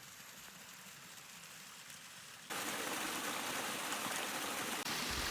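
Steady hiss of water, rain or a nearby stream, which jumps sharply louder about two and a half seconds in.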